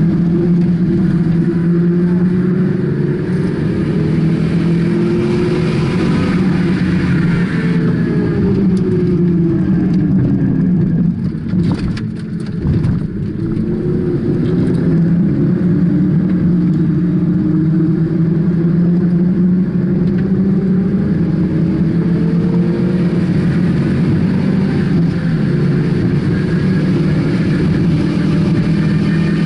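Car engine heard from inside the cabin while lapping a race track, its note rising and falling in pitch as it accelerates and shifts gears. About twelve seconds in the engine note dips briefly and there are a few clicks, then it builds again.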